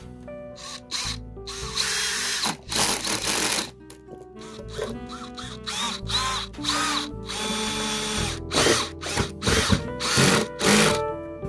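A handheld power tool running in repeated short bursts, its motor pitch rising and falling with each burst, over background music.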